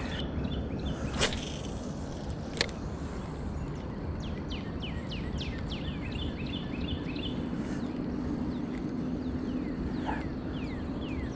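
Birds calling with many short, quick, falling chirps from about four seconds in, over a steady outdoor background hiss, with two sharp clicks in the first few seconds.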